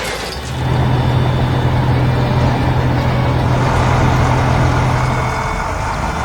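Heavy construction-vehicle engine running steadily with a loud low hum. It comes in about half a second in and eases off shortly before the end.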